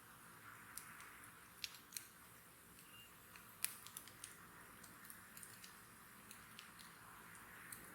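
Wood burning in an open bonfire: faint, irregular crackles and pops of burning wood over a soft hiss of flame, the sharpest pop a little past halfway.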